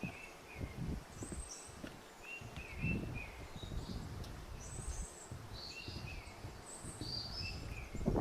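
Footsteps crunching along a forest trail, with several songbirds giving short, repeated chirps overhead.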